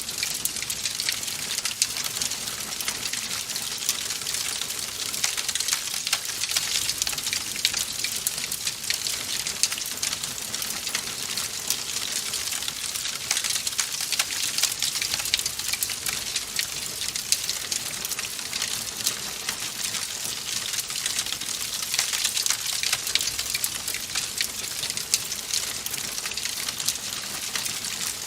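Wood fire crackling steadily in a fireplace: a dense hiss full of small, sharp pops.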